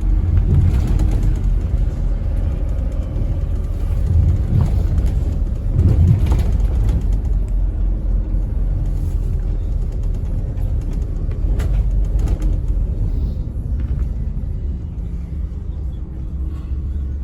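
Inside a 2009 Scania N270UD OmniCity bus on the move: steady engine and road rumble, with a few louder swells and knocks along the way.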